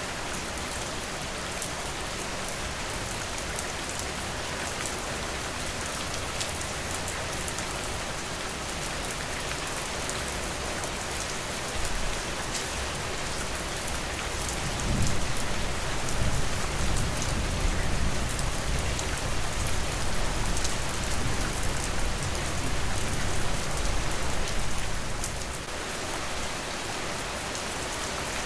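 Steady rain falling on a porch, an even hiss with fine patter of individual drops. About halfway through a deep low rumble comes in, louder than the rain, and dies away near the end.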